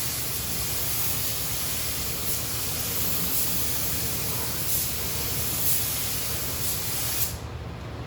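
Paint spray gun hissing steadily as it lays down the first coat of paint, then cutting off suddenly about seven seconds in.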